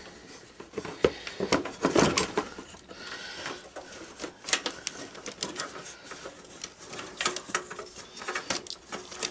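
Irregular light clicks, taps and rattles of small metal parts and cables being handled, as wiring and the negative battery cable are fitted back on a garden tractor.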